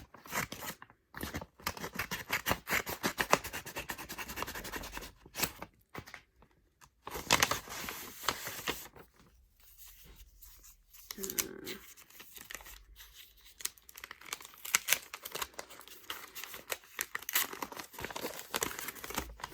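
Packaging crinkling and tearing as it is unwrapped by hand, in irregular spells of crackling with short pauses between them.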